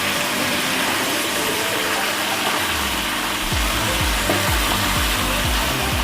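Chicken with ginger-garlic paste sizzling steadily as it fries in oil in a karahi. Background music with a low beat comes in about halfway through.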